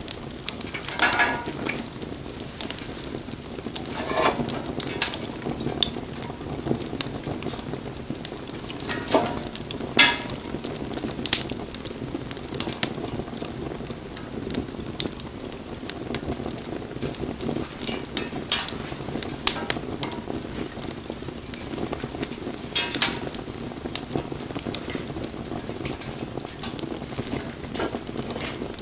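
Wood campfire burning: steady hiss with irregular sharp crackles and pops, and a few brief whistling hisses in the first ten seconds.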